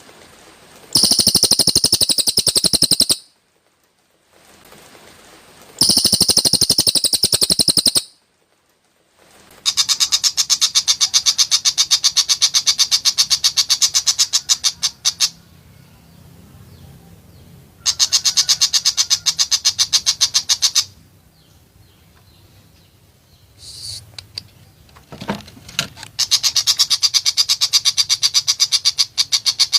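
Cucak hijau (green leafbird) singing harsh, rapid-fire 'tembakan' phrases: five loud bursts of very fast repeated notes, with short quiet gaps between them.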